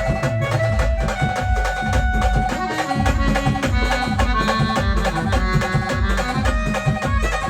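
Maharashtrian brass band playing an instrumental passage: held melody notes over fast, steady drumming.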